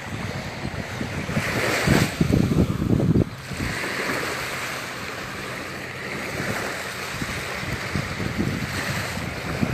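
Surf washing up on a sandy beach, with wind buffeting the microphone; the buffeting is heaviest from about one to three seconds in, then the hiss of the wash comes up.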